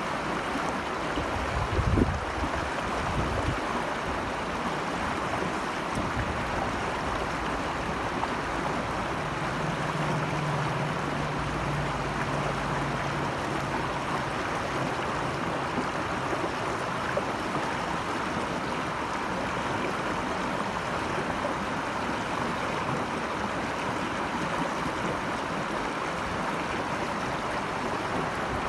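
Steady rushing of flowing stream water. There are two low thumps about two and three seconds in, and a faint low hum for several seconds in the middle.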